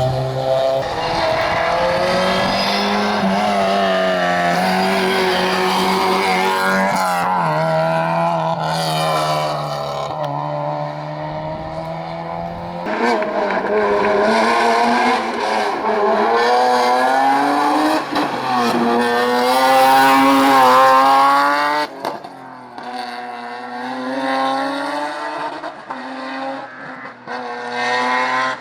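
Rally cars at racing speed, engines revving hard and dropping back through the gears as they brake and accelerate, with some tyre squeal.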